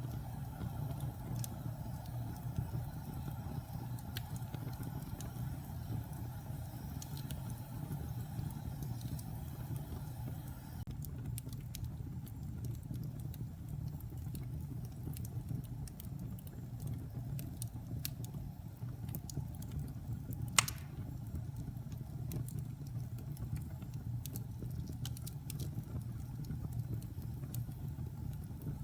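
Wood fire burning in a fireplace: a steady low rumble of the flames with scattered small crackles, and one sharper pop about two-thirds of the way through.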